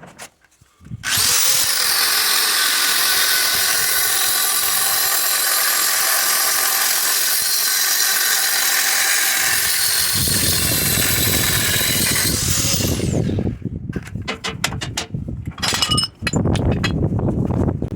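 A power tool starts about a second in, runs steadily at a high whine for about twelve seconds and then winds down. A series of sharp clicks and knocks follows.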